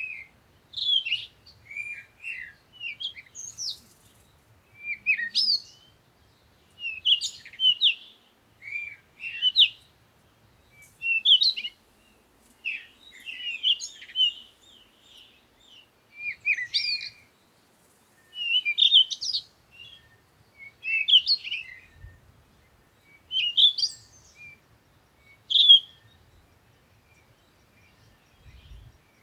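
Songbirds chirping and singing in short, quick phrases that repeat every second or two.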